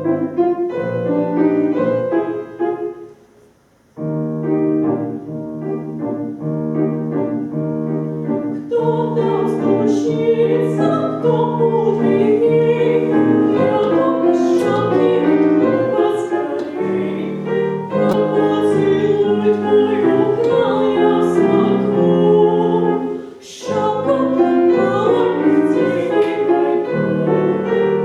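Classical vocal performance: a piano plays alone at first, breaking off briefly about four seconds in, and a solo voice comes in singing over the piano accompaniment about nine seconds in.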